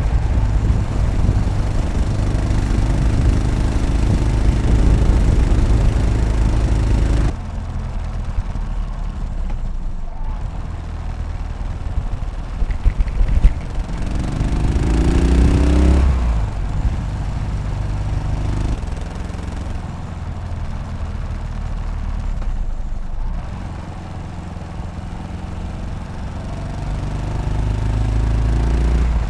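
Yamaha SR500's air-cooled single-cylinder four-stroke engine pulling on the road. The sound drops sharply about seven seconds in as the throttle comes off, rises in pitch as the engine revs up about halfway through, then runs steadier and builds again near the end.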